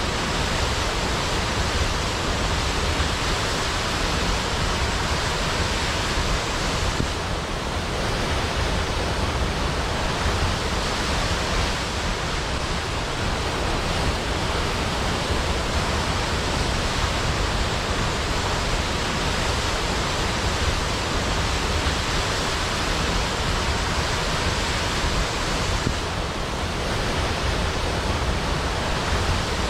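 Waterfall rushing in a steady, dense roar of falling water, easing off slightly for a moment twice.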